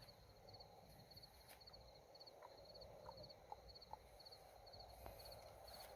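Faint field ambience with an insect chirping steadily: short, high, pulsed chirps repeating about two to three times a second.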